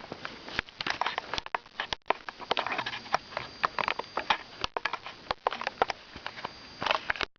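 Pet ferret making small noises: quick, irregular snuffling sniffs mixed with fast clicks and scrabbles.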